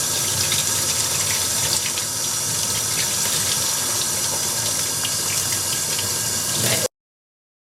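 Kitchen tap running steadily into the sink, with scattered small clicks over the water noise. The sound cuts off abruptly near the end.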